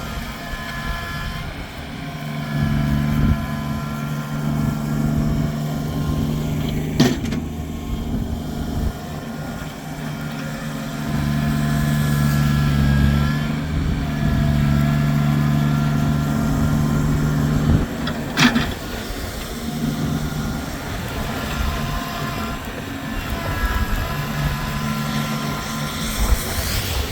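Kubota tractor's diesel engine running under changing load, its low hum strengthening and easing every few seconds while higher tones come and go. Two sharp knocks cut through it, one about seven seconds in and one near eighteen seconds.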